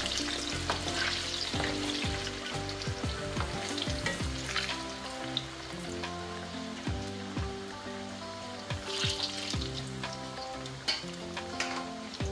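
Ripe plantain slices deep-frying in hot oil: a steady sizzle with scattered crackles and pops, a spatula stirring them at the start. Soft background music plays underneath.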